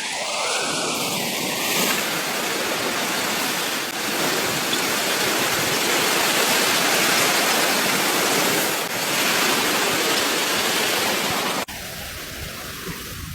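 Steady rushing of fast-flowing water, with a few brief dips and a sudden drop to a quieter rush near the end.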